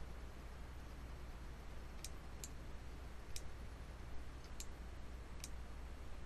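Computer mouse clicking five times at uneven spacing, over a low steady electrical hum.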